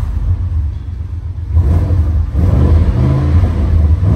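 Car engine running with a steady low rumble. It eases off in the first second and a half, then grows louder again.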